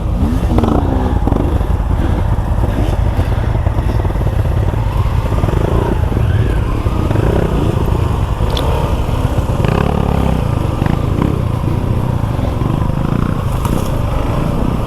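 Suzuki V-Strom 250 SX motorcycle's engine running steadily while being ridden, its note wavering up and down with the throttle.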